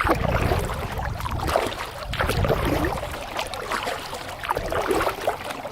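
Water sloshing and lapping against a plastic kayak hull in small irregular splashes and plops, over a steady low rumble.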